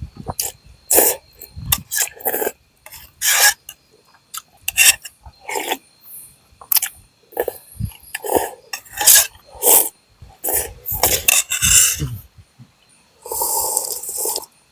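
Repeated short, rough scraping strokes at an irregular pace of about one a second, with a longer stroke near the end.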